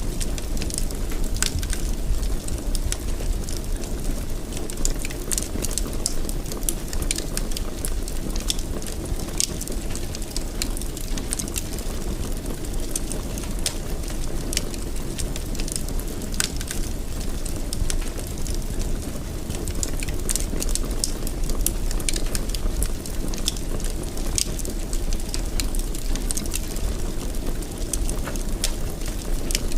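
Wood fire burning in a fireplace: a steady low rush of flames with frequent small crackles and pops throughout.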